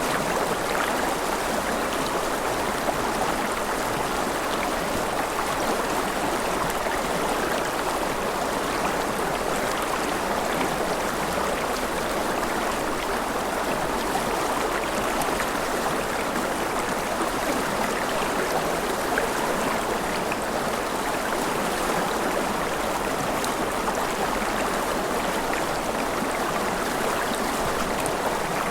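Mountain river running over rapids: a steady, even rush of flowing water.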